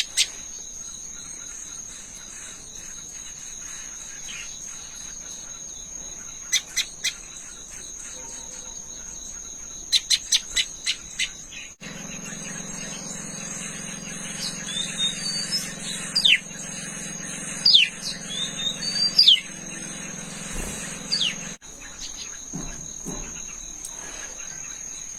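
Small birds chirping over a steady high insect drone: a few sharp chirps, a quick run of five or six about ten seconds in, then after about twelve seconds a low hum comes in with short whistled calls that slide downward, until the hum cuts off near the end.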